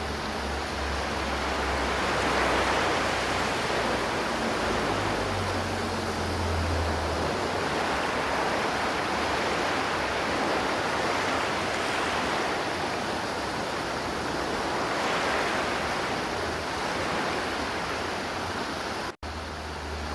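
River water flowing, a steady rushing sound with slow gentle swells in level. It drops out for a split second near the end.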